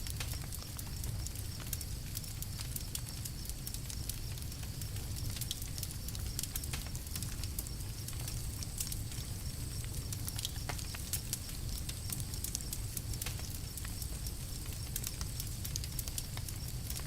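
Campfire crackling: frequent small sharp pops and snaps over a steady low rumble of burning.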